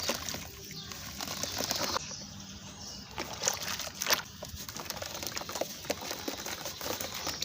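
Lumps of sand-cement being crushed and crumbled, a dense run of gritty crackles with a few louder snaps near the middle.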